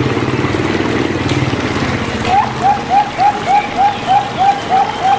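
Zebra dove (perkutut) cooing: a low rolling coo for about two seconds, then a run of about ten short, rising coo notes at roughly three a second. A steady hiss like running water or rain lies under it.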